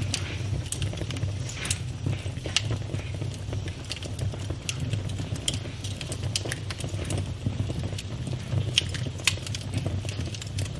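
Campfire burning: a steady low rumble of flame with irregular sharp crackles and pops, several every second.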